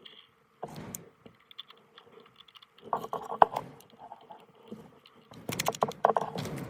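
Irregular clicking and light clatter of small hard parts being handled. There is one sharp click about halfway through and a quick run of clicks near the end.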